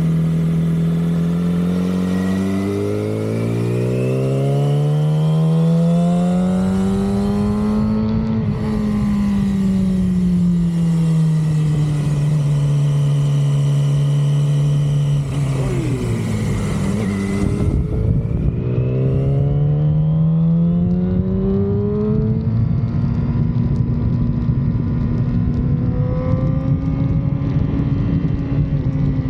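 Stock 2006 Yamaha R6 inline-four running under way: the engine note climbs steadily for the first several seconds, falls off gradually, then climbs again about halfway through and holds high near the end.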